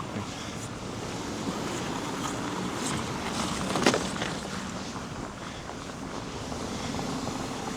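Steady rumble of street traffic with wind noise, and one sharp click about four seconds in.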